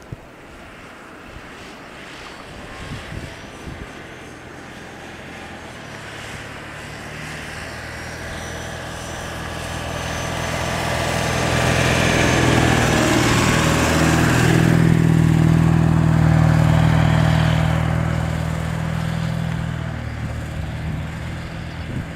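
Snowplow truck's engine working under load while pushing heavy, deep snow. It grows steadily louder to a peak in the middle and then eases off, with a thin high whine above it for a while.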